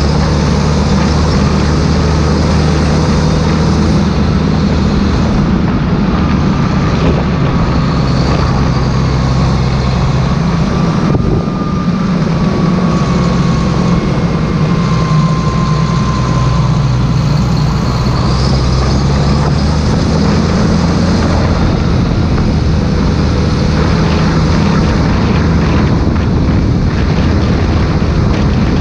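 Claas Xerion 3800 tractor's diesel engine running at a steady speed, with a faint whine that wavers slightly in pitch above it.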